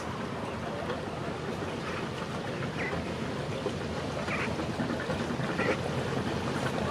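A river boat's engine running steadily, mixed with the wash of water, growing a little louder near the end.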